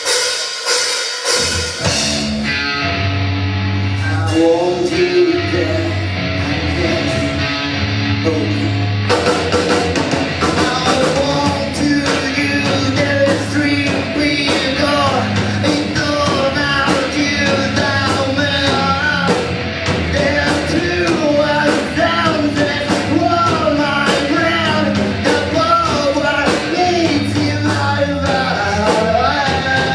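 Live rock band playing a song with drums, bass, electric guitar and singing. It begins right after a short break, and the full band with crashing cymbals comes in about nine seconds in.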